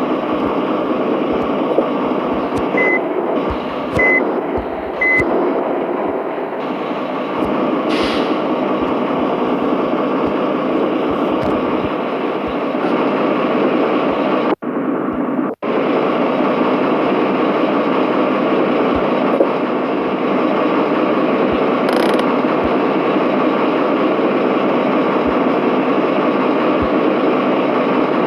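Steady running noise of a Mitsubishi Fuso truck, with three short beeps about a second apart near the start. The sound breaks off for about a second midway.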